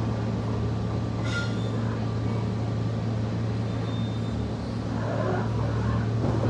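Inside a SMART diesel multiple-unit railcar under way: a steady low diesel engine drone over the even rumble of the wheels on the rails.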